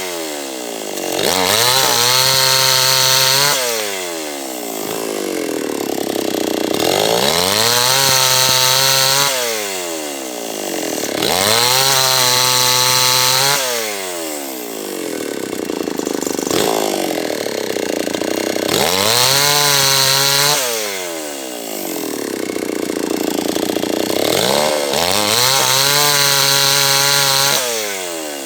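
Two-stroke H&L Pro 5800 chainsaw cutting teak wood. The engine rises to full speed, holds for a second or two and drops back, about every four seconds.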